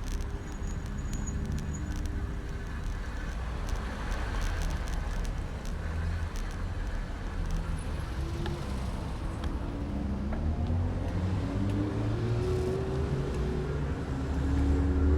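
Street traffic heard from a moving bicycle, with steady road and wind rumble. In the last few seconds a motor vehicle's engine rises in pitch and grows louder as it accelerates close by.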